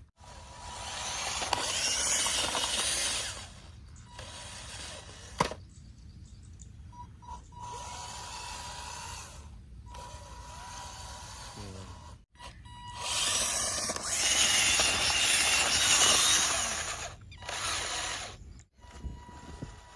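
Small electric motor running in several short spells, each cut off abruptly.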